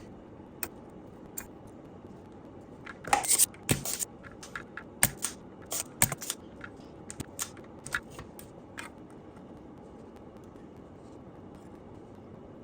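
An irregular run of sharp clicks and short scrapes from small tools and parts being handled at an electronics workbench, bunched between about three and nine seconds in, over a steady background hiss.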